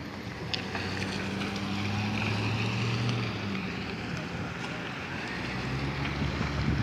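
A vehicle engine running steadily in low gear, with wind buffeting the microphone. The engine hum grows louder about a second and a half in, eases off after about three and a half seconds, and picks up again near the end.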